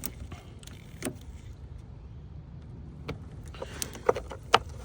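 Small sharp clicks and taps of a metal pick tool working at the locking tab of a plastic EVAP line quick-connect, a few scattered at first and a louder cluster near the end, over a steady low rumble.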